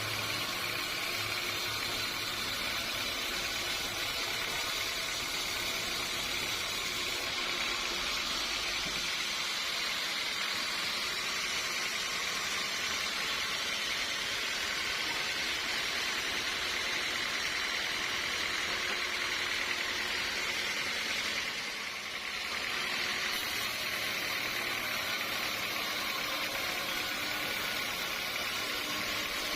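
Sawmill machinery running steadily: a constant high hiss with a faint low hum, dipping briefly about three-quarters of the way through.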